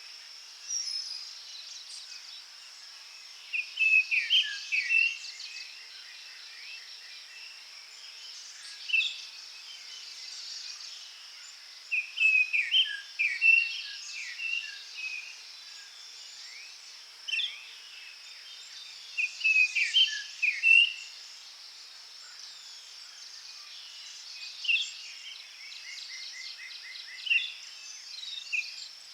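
Forest songbirds singing in short bursts of chirping phrases every few seconds, over a steady high insect drone. Near the end one bird gives a quick run of evenly repeated notes.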